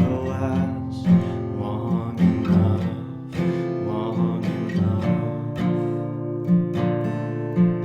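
Acoustic guitar strumming chords, with a steady stroke rhythm and no singing: an instrumental passage after the song's last sung line.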